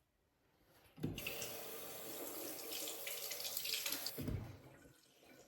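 Kitchen tap turned on about a second in, water running steadily into a sink for about three seconds, then shut off with a thump.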